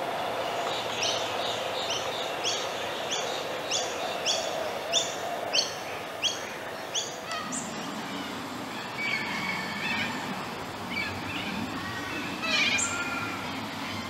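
A bird repeating a short, high note about a dozen times at roughly two a second, then scattered chirps and a quick rising note from birds near the end, over a low steady background hum.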